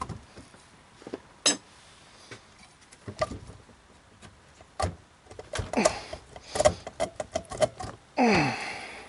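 Scattered clicks and knocks of hand tools and engine parts being handled on a workbench, with a quick run of clicks about six to eight seconds in and a short scrape that falls in pitch near the end.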